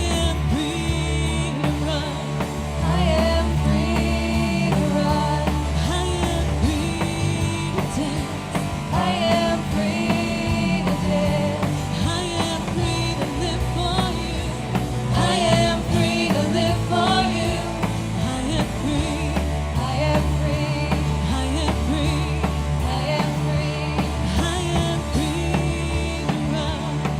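Live worship band playing a rock-style praise song, with drums, a steady bass line and a wavering melody line over it.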